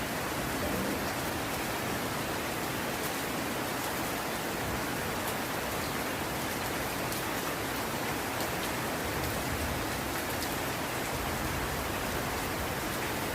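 Heavy rain falling steadily, an even hiss of rain with a few faint sharp drop ticks.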